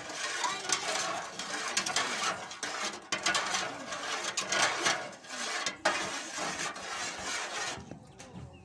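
Continuous rattling and clattering of hard objects, dense with small clicks, stopping shortly before the end.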